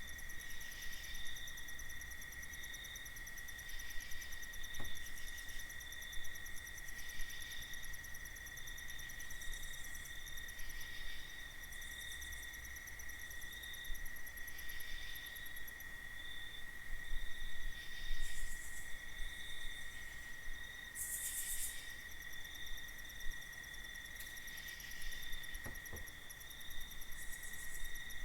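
Night insects, crickets, trilling in a steady high-pitched chorus, with higher calls pulsing on and off every second or two. Two faint ticks, one about five seconds in and one near the end.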